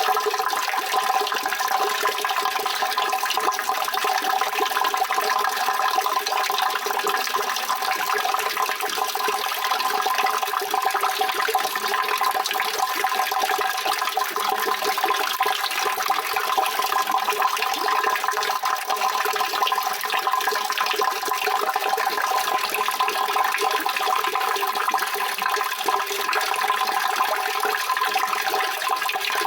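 Steady rushing of running water, an even, unbroken hiss that does not change throughout.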